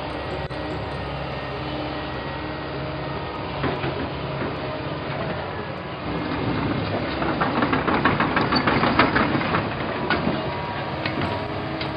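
Wheel excavator's engine running steadily, with rattling and clanking that grows louder from about halfway in for a few seconds.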